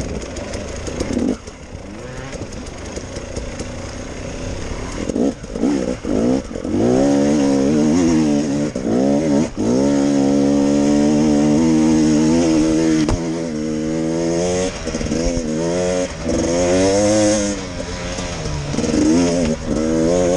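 Enduro dirt bike engine revving in short throttle bursts a few seconds in, then running hard under load. Its pitch repeatedly rises and falls.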